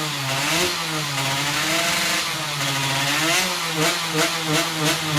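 Yamaha F1ZR two-stroke motorcycle engine, a new 116 engine being tuned, revved by hand with its pitch swinging up and down. Near the end it switches to quick throttle blips, about three a second.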